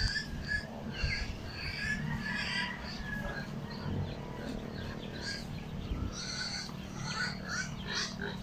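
Birds chirping: many short, quick calls repeating throughout, over a steady low rumble.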